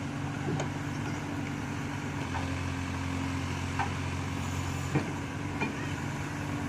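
Backhoe loader's diesel engine running steadily, its tone shifting lower about two seconds in, with a few sharp clanks, the loudest about five seconds in.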